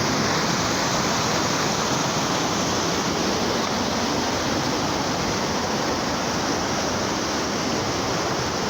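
A swollen river in flood, its water rushing past in a steady, loud, unbroken noise, risen nearly to the bridge.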